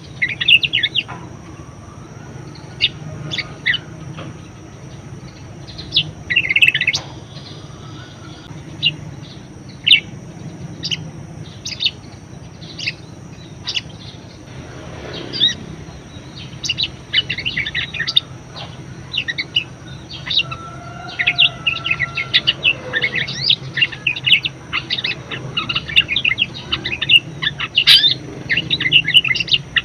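Budgerigar chattering and warbling in quick, high chirps, scattered at first and then almost continuous from about halfway through, over a low steady hum.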